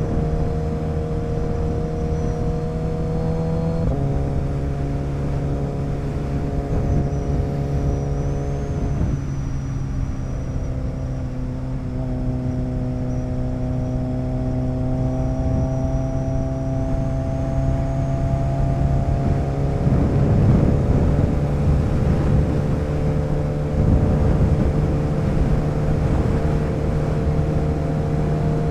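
Motorcycle engine running at steady riding speed with road and wind noise. The engine note drops in a step about four seconds in, and the wind noise swells about two-thirds of the way through.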